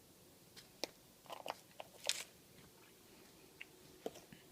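A few faint, scattered clicks and crackles, the loudest about two seconds in, from handling and pouring out a container of cream of tartar.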